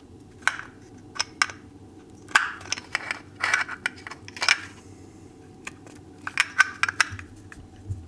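Irregular clicks, taps and short scraping rustles of a new oil filter cartridge being handled and pushed into its housing on a snowmobile engine.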